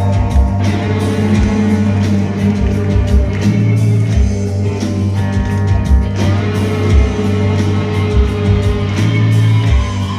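Heavy rock band playing: electric guitar over bass and a drum kit.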